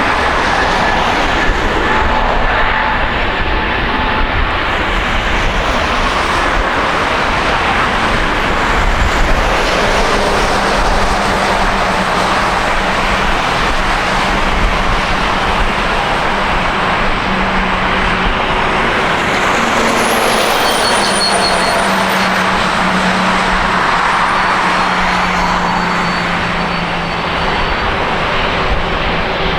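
Jet airliner engines running loudly and steadily, with a thin high-pitched whine rising into the noise about twenty seconds in.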